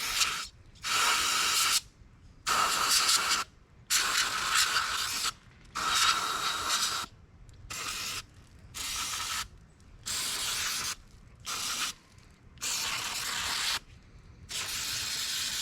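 Aerosol can of brake cleaner spraying in a string of short hissing bursts, about a second each, roughly ten in all with brief pauses between.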